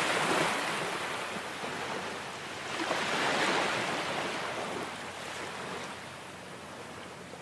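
Ocean surf: waves washing in and drawing back, one swell building to a peak about three seconds in, then fading away.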